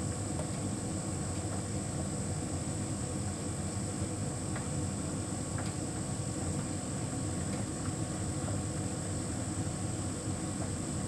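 Hotpoint heat pump tumble dryer running: a steady hum and whirr with a thin high whine above it, and a few faint ticks.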